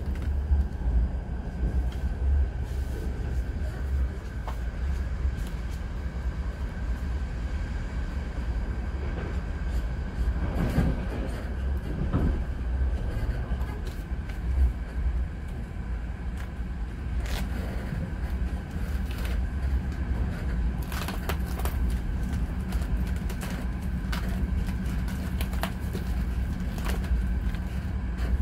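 Inside a moving commuter train carriage: the steady low rumble of the running train with a thin steady whine above it and occasional small clicks and knocks.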